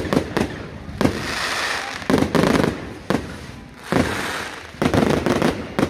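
Fireworks going off: a string of sharp bangs, several followed by crackling, coming thick and fast.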